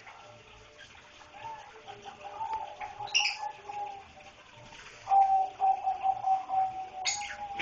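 Lovebirds calling: a drawn-out, wavering low whine, loudest about five seconds in, with brief high chirps about three seconds in and again near the end.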